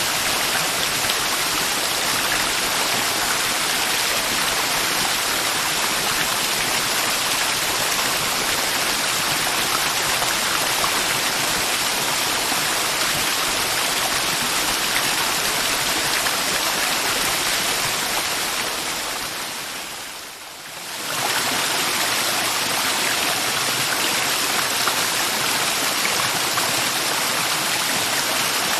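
Mountain river water rushing steadily over rocks. About two-thirds of the way through, the sound fades down briefly and then comes straight back up.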